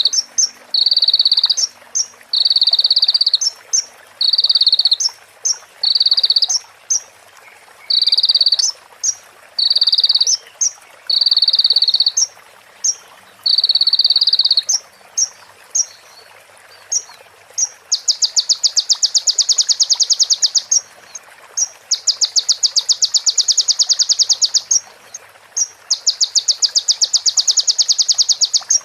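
Konin (kolibri ninja sunbird) singing a song filled with mimicry of female prenjak and ciblek calls: first a string of short high buzzy phrases broken by sharp chips, then three long rapid rattling trills.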